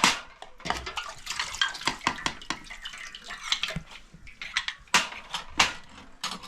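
Dishes and cutlery clinking and knocking irregularly, with water splashing, with a few louder knocks at the start and about five seconds in.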